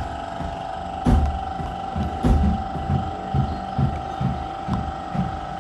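A series of knocks, a few sharp ones and then duller ones about two a second, over a steady mechanical hum.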